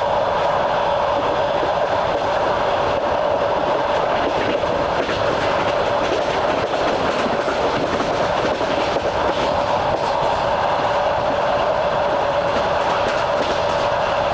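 Train in motion, heard from aboard: a steady running noise with a constant hum, and wheels clacking over the rail joints.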